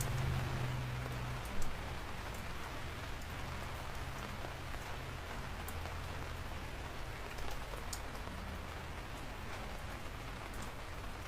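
Steady rain falling, with scattered sharp drop ticks. A low rumble at the start fades over the first second or two.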